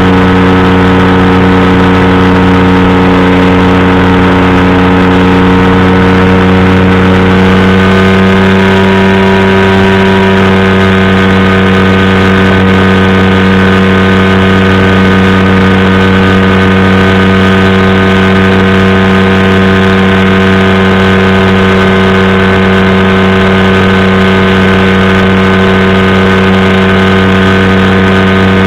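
Powered parachute's engine and propeller running steadily in flight, loud and even, its tone shifting slightly about seven and a half seconds in.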